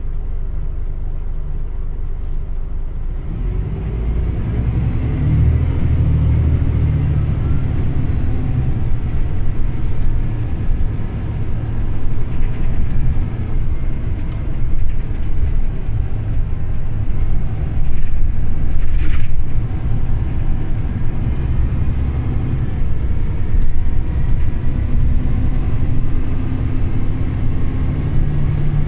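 Scania OmniLink CL94UB city bus's engine running as the bus drives. It is steadier and lower for the first few seconds, then works harder from about three seconds in. There is a brief high squeal about two-thirds of the way through.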